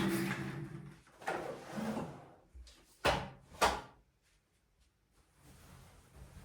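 Tidying sounds, with things being slid and handled: a long scraping slide at the start, another soon after, two short quick slides about three seconds in, then only faint rustling. No vacuum cleaner is running.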